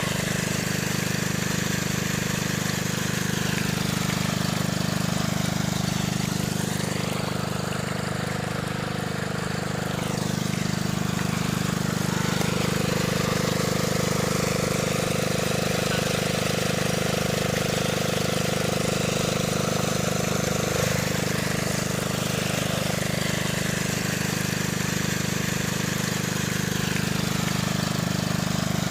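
The small motor of a mini tractor water-pump model, running at a steady speed with an even hum.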